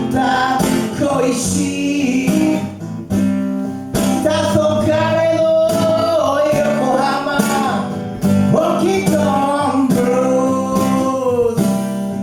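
Live performance of a slow blues song: acoustic guitar playing with a male voice singing.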